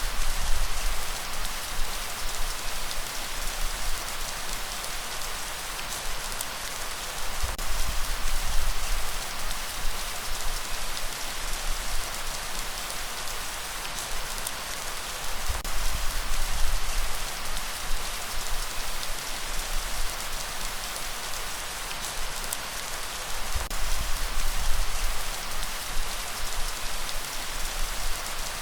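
Steady, dense rainfall hissing on surfaces. A low rumble swells and fades about every eight seconds beneath it.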